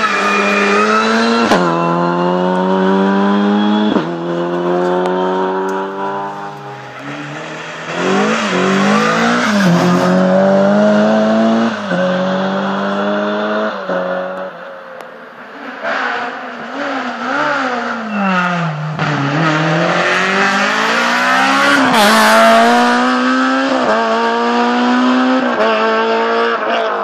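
Rally car engine revving hard and accelerating through the gears, its pitch climbing and then dropping sharply at each upshift. About two-thirds through, the pitch falls as the car slows, then climbs again through further upshifts.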